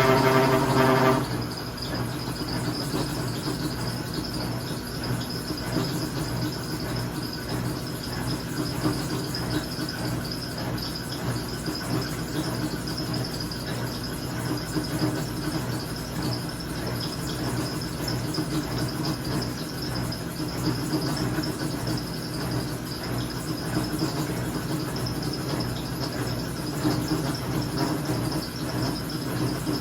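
Maytag MVWP575GW top-load washer running a load of sheets with a steady high whine and low hum. A loud, deep, horn-like groan sounds for about a second at the start and again at the very end. This is the abnormal noise a brand-new machine began making with this load.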